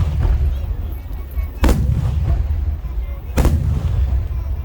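Aerial firework shells bursting: two sharp bangs about 1.7 seconds apart, each followed by a long, low rumbling boom, on the tail of another burst just before.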